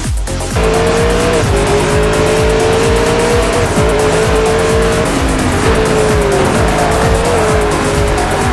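Electronic music with a steady beat, mixed with a car's tyres squealing in long wavering tones that start about half a second in.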